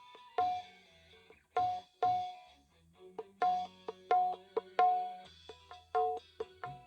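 Kendang, Indonesian dangdut hand drums, played in an uneven rhythm through a PA system: sharp, ringing high strokes mixed with deeper bass strokes, with a quieter stretch a little before the middle.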